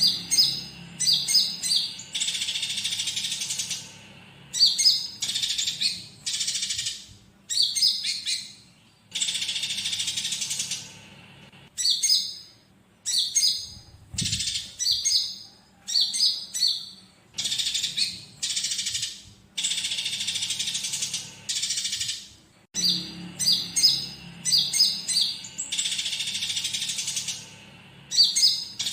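Konin songbird singing a loud, repeating song. Quick runs of high chirps alternate with harsh buzzy chatter every two seconds or so, with short gaps between phrases. The chatter is the fighting house sparrow material worked into its song.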